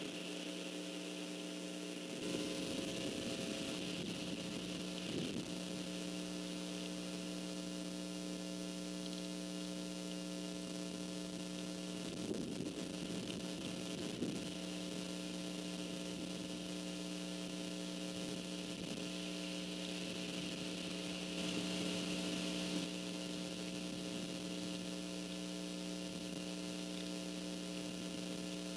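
Steady electrical mains hum on the nest camera's audio line, several fixed tones, with a faint hiss. A few brief swells of noise, wind buffeting the microphone, come and go.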